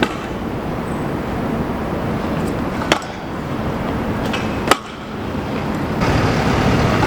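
Wheels rolling on pavement, a steady grinding noise broken by a few sharp clacks: the first near the start, then about three seconds and about five seconds in.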